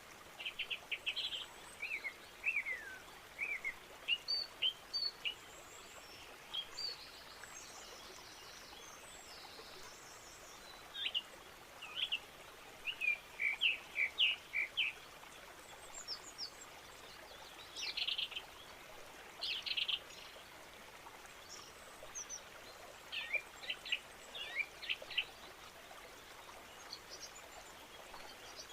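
Birds chirping: short high calls and a few falling notes in clusters of several at a time, with pauses of a few seconds between, over a faint steady background hiss.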